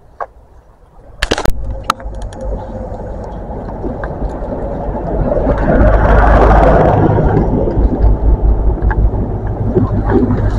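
A few sharp knocks just over a second in, then a passing train's rumble that swells to its loudest around the middle and stays loud.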